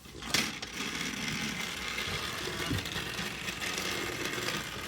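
Battery-powered toy train engines running, a steady whir of small motors and gears that starts with a click a moment in.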